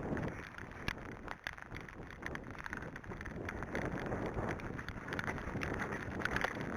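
Wind buffeting the microphone and rain falling, with many short wet ticks and splashes from the horse's hooves moving through muddy water.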